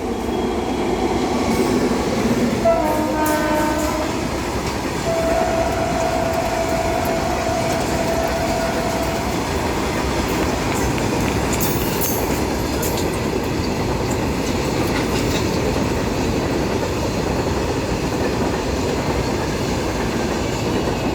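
Passing train sounding its horn, a short blast about three seconds in and a longer one from about five to nine seconds, over the steady rumble and clatter of wheels on the rails.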